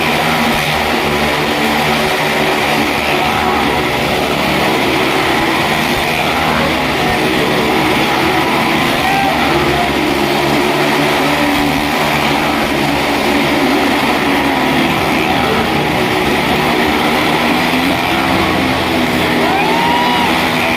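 Car and motorcycle engines running steadily and loudly as they circle the wall of a well-of-death drum, a continuous engine drone without breaks.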